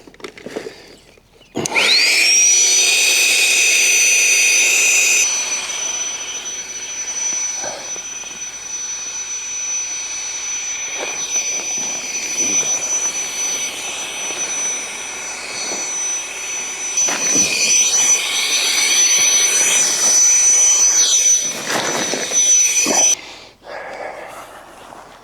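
Electric air pump whirring as it spins up quickly to a steady high whine, running for about twenty seconds, then switching off abruptly.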